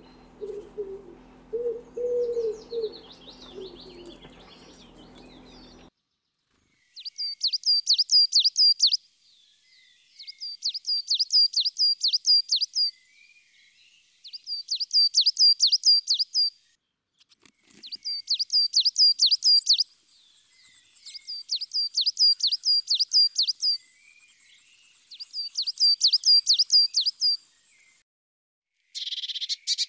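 Coal tit singing: six bouts of rapid, high, repeated notes, each about two seconds long, with short pauses between. Before it, a common wood pigeon's low cooing stops about six seconds in.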